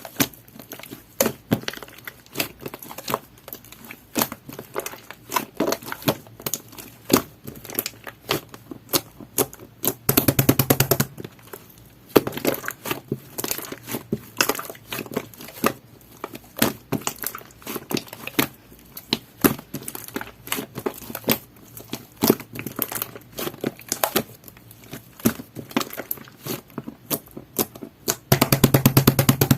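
Jelly-textured slime being squished and pressed by hand, a steady run of small sharp clicks and pops, with two longer, louder crackling squishes about ten seconds in and near the end.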